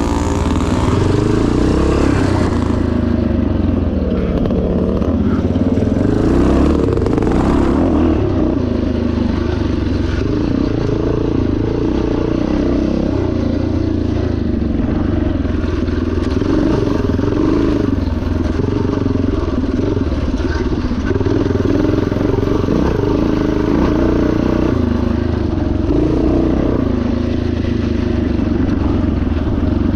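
1977 Yamaha TT500's single-cylinder four-stroke engine running hard off-road, its pitch rising and falling continually with the throttle.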